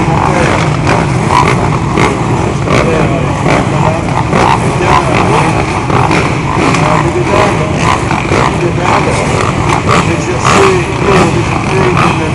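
Motocross motorcycles racing, several engines revving and surging over one another without a break.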